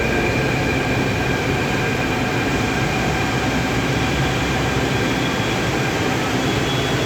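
Jaipur Metro train running, a steady rumble with a faint high whine held throughout.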